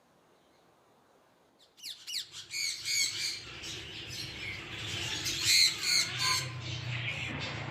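A bird squawking repeatedly, with loud pitched calls starting about two seconds in.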